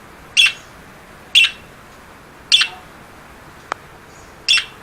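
Birds calling: a short call repeated four times, about one to two seconds apart, with a single sharp click between the third and fourth calls.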